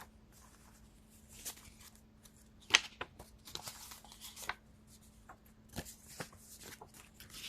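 Tarot cards being handled and shuffled: a run of papery rustles, flicks and light taps, with a sharper snap about three seconds in.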